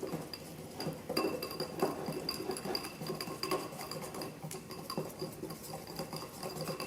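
A utensil whisking cake batter in a bowl, clicking and clinking against the sides in a rapid, steady rhythm.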